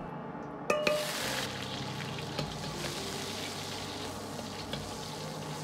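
Scallion whites and chopped ginger sizzling in hot lard in a wok, stirred with a metal ladle. Under a second in, a ringing metal knock and a sudden burst of sizzling, then steady sizzling with occasional ladle scrapes and taps.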